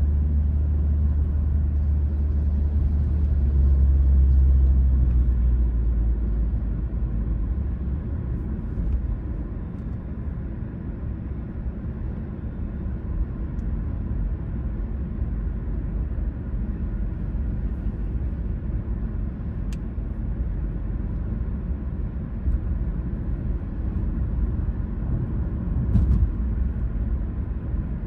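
Car on the move: a steady low rumble of engine and road noise, strongest for the first few seconds and then easing to an even hum, with a couple of faint ticks later.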